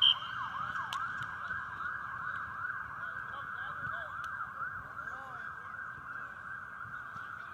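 Emergency vehicle siren that switches from a slow wail to a fast yelp at the start, with a brief high chirp at the change. The yelp sweeps up and down about four times a second and slowly fades.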